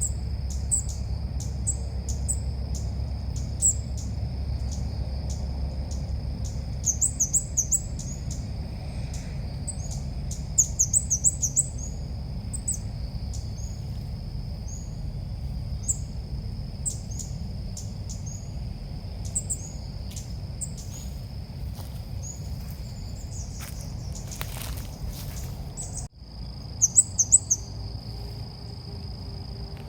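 Red-whiskered bulbul calls: short, high chirps repeated every second or so, with quick runs of several notes now and then, over a steady high thin whine and low background hum. The sound drops out briefly near the end and comes back with a quick burst of chirps.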